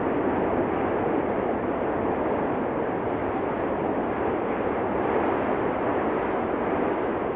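Steady, unbroken noise of the Cumbre Vieja fissure eruption, with no separate blasts.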